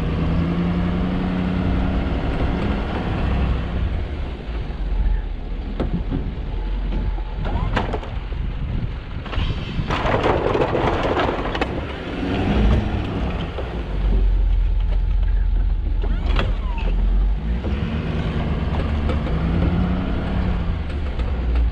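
Plow truck's engine running with a steady low rumble, its pitch rising and falling several times as it speeds up and slows down. About ten seconds in there is a rushing noise lasting a couple of seconds, and a few sharp knocks.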